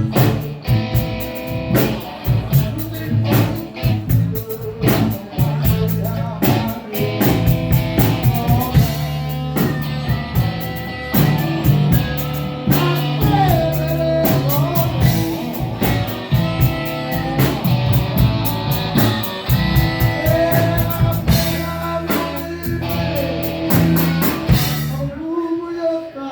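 Blues-rock band playing, with electric guitar and drum kit, loud throughout; the music stops abruptly about a second before the end.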